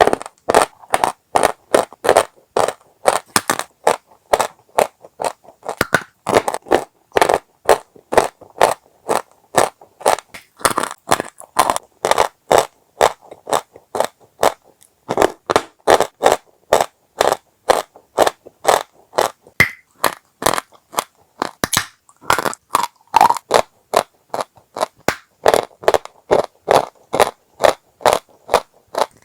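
Dry chalk being crunched: a steady run of short, crisp crunches, about two to three a second, with a brief pause about halfway through.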